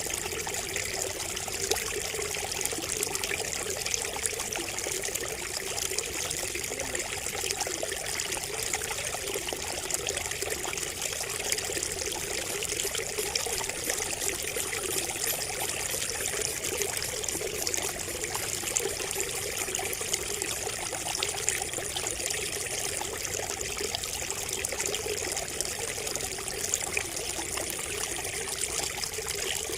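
Water trickling and splashing steadily from a bamboo spout, a continuous even babble.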